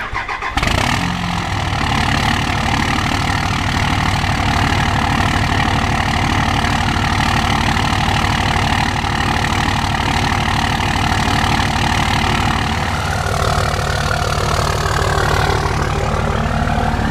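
2003 Cummins 5.9-litre inline-six turbodiesel with a 4-inch straight-pipe exhaust on a cold start: it stumbles at the end of cranking, catches within the first second, and settles into a loud, steady idle with an even firing pulse.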